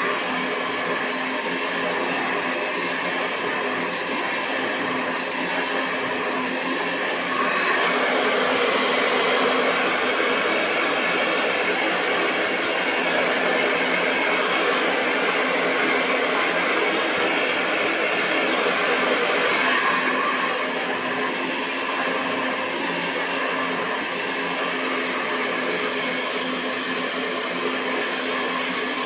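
Hair dryer running continuously: a steady rush of blown air over a constant motor hum. It grows slightly louder about a quarter of the way through and drops back about two thirds through.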